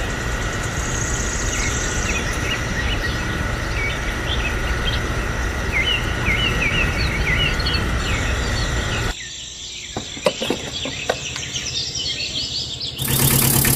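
Small birds chirping over a steady outdoor background hiss. About two-thirds in the hiss drops away, leaving the chirps and a few sharp clicks. Near the end a loud, steady engine-like noise cuts in suddenly.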